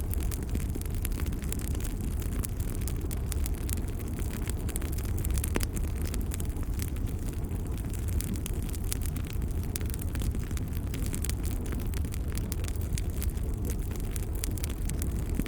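Log fire burning: a steady low rumble with frequent small, irregular crackles and pops.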